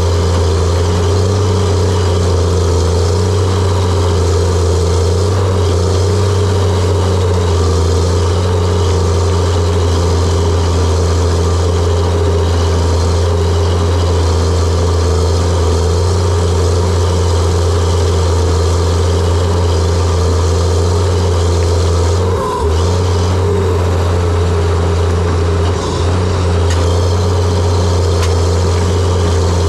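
Diesel engine of a John Deere 700J-II crawler dozer running steadily and loud while working, with a deep, even hum. The note dips briefly twice near the end.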